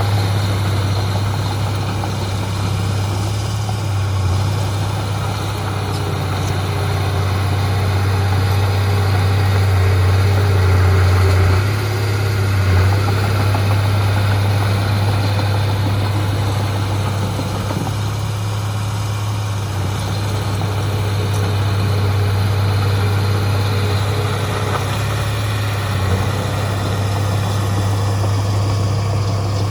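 Heavy diesel earthmoving machinery running with a steady low drone, swelling slightly about ten seconds in.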